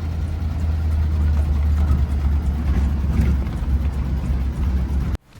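A 1935 Ford coupe's 1949-1953 flathead V8 engine running steadily with a low, even rumble, cutting off suddenly near the end.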